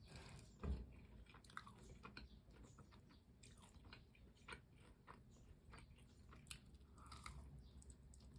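Close-up chewing and crunching of fried chicken, a run of small mouth clicks with one louder bite near the start.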